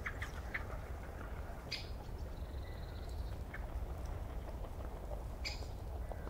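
Birds calling in the background, short scattered calls with two louder ones about two seconds in and near the end, over a steady low rumble.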